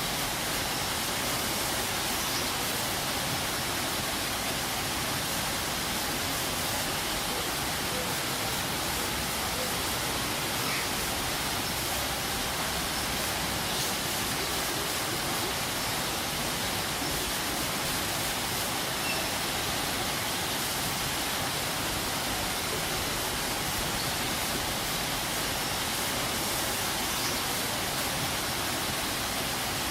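Waterfall: steady, unbroken rush of falling water.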